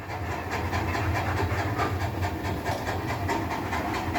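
Dog panting rapidly and evenly, quick breaths of air with no vocal sound.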